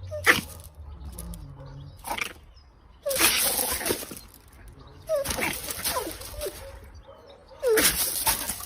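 An animal, likely a pet, calls three times: each call is a harsh, hissing burst about a second long that opens with a short falling cry.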